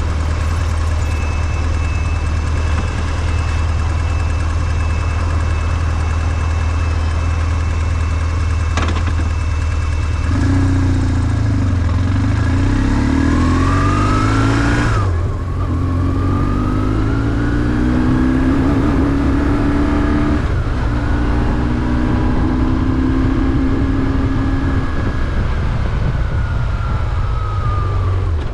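BMW R1150GS's boxer twin engine running steadily at low revs, then, about ten seconds in, accelerating through the gears: the pitch climbs, drops at two upshifts, and falls away near the end as the revs come down.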